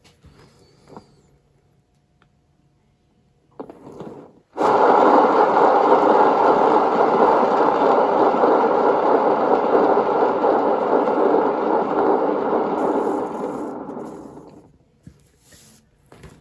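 Hairdryer blowing air over wet acrylic paint: it starts suddenly, runs with a steady whooshing hum for about ten seconds, then winds down as it is switched off.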